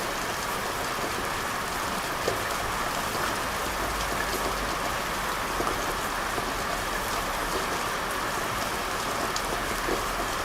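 Steady rain falling on hard surfaces: a constant hiss with scattered individual drops ticking through it.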